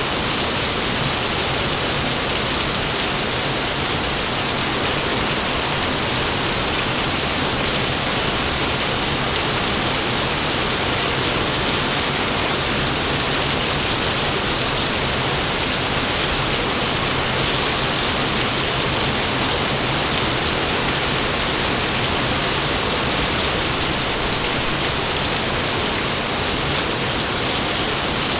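Heavy rain falling steadily: a dense, even hiss with no breaks or thunderclaps in this stretch.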